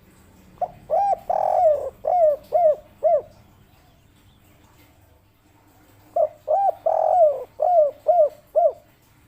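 Spotted dove (tekukur) cooing its 'kuk 3' song twice: each phrase is a short coo and a longer falling coo, then three short 'kuk' notes.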